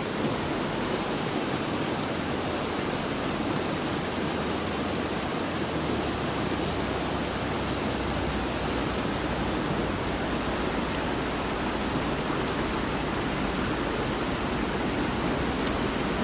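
Creek water rushing steadily, a continuous even noise, with a deeper low rumble joining about five seconds in.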